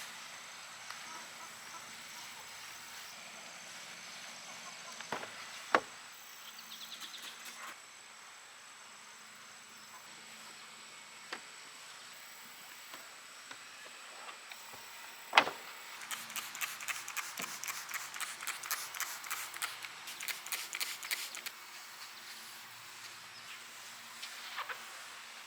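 Outdoor summer ambience with faint insect sounds and a thin, high steady tone. A few sharp clicks or knocks stand out, the loudest about fifteen seconds in. Near the end comes a run of rapid ticking, several a second, lasting about five seconds.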